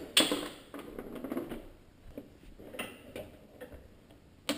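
Plastic front-bumper retaining clips on a Honda Accord being worked loose with a screwdriver: a sharp click just after the start, scattered small clicks and scrapes, and another sharp click near the end.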